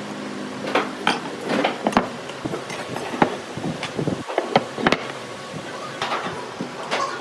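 Irregular knocks and light clinks of hard objects, as when wood and tools are handled on a workbench. A machine's steady hum dies away in the first second.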